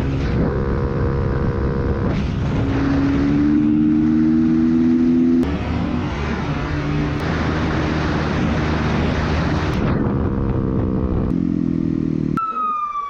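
Dirt bike engines running and revving in a string of short cuts. Near the end a police siren starts its wail, a single tone sliding downward.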